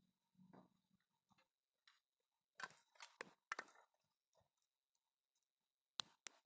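Faint crackling of a wood fire: scattered sharp snaps and pops, a few clustered between two and four seconds in and two close together near the end.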